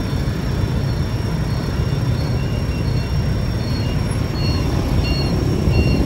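A D13E diesel locomotive and its passenger train passing, a steady low rumble of engine and wheels. A short high beep repeats about every half second over it.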